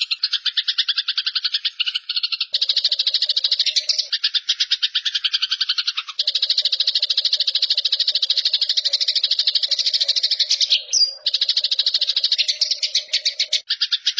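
Eurasian tree sparrows chattering in a fast, harsh, rapid-fire rattle, the excited call of sparrows fighting. The chatter runs almost without pause, broken only by a few short gaps.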